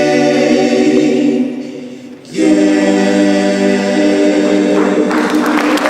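A cappella vocal group holding a sustained chord without words. It dies away, and a new held chord follows about two and a half seconds in. Audience applause starts near the end.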